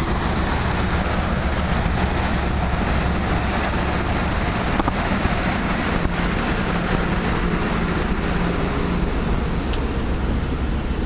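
Steady roar on the open deck of the large passenger ferry Salvia Maru under way: wind rushing over the microphone mixed with the low, even hum of the ship's machinery.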